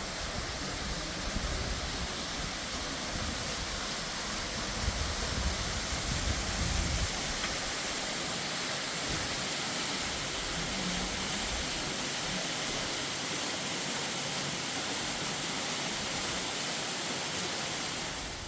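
Steady rushing of river water, an even hiss across all pitches, with a heavy low rumble mixed in for about the first seven seconds. It cuts off abruptly at the end.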